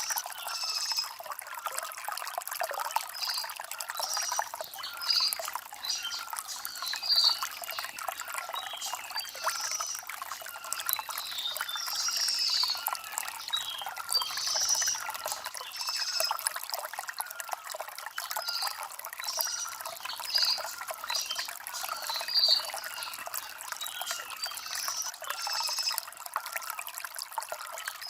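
Shallow stream trickling and gurgling over stones, a steady sound with little low rumble. Short high bird chirps come and go throughout over the water.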